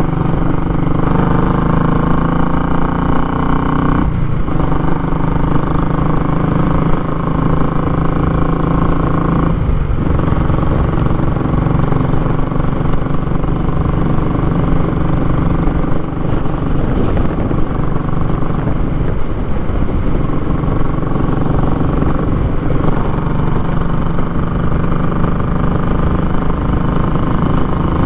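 Royal Enfield Classic 500 single-cylinder engine under way, its short, baffle-free exhaust giving a raw, loud note. The pitch climbs gently and breaks off briefly a few times, at about four and ten seconds in.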